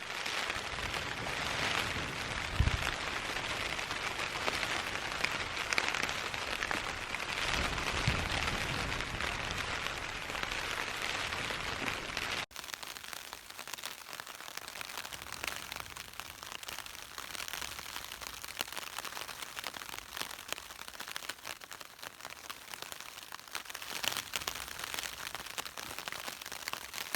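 Rain pattering on the fabric of a single-wall Six Moons Designs Lunar Solo tent, with a couple of low thumps in the first half. About halfway through the sound cuts abruptly to a quieter, lighter patter.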